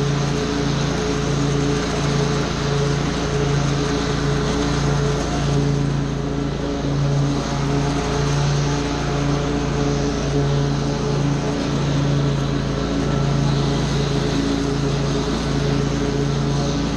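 Small petrol engine of lawn-care equipment running steadily at a constant speed under load, a loud continuous drone with no let-up.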